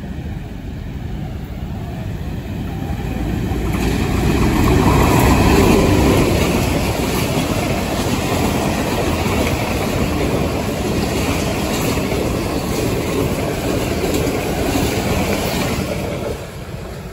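A Pakistan Railways ZCU-20 diesel-electric locomotive hauling an express passenger train passes at speed: it grows louder as the locomotive comes by, then the coaches roll past with a steady rumble and repeated wheel clicks over the rail joints. The noise drops off suddenly near the end as the last coach clears.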